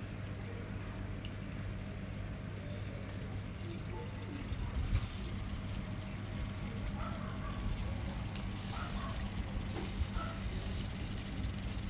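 A cat drinking water: faint water sounds over a steady low hum.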